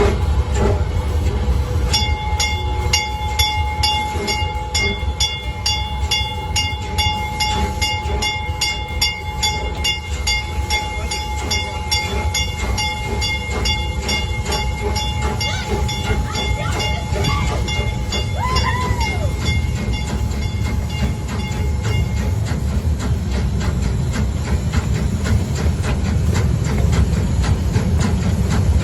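Narrow-gauge train running with a steady low rumble. From about two seconds in until about two-thirds of the way through, a high, even ringing repeats about twice a second over it.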